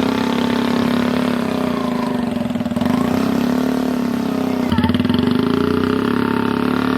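Mahindra XP Plus tractor's diesel engine running steadily, picking up revs briefly about three seconds in and again near five seconds.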